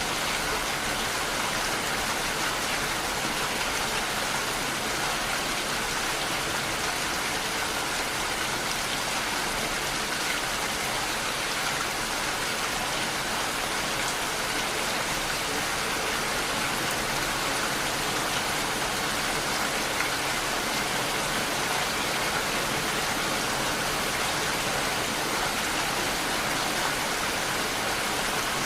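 Steady rain falling, an even hiss with no breaks or surges.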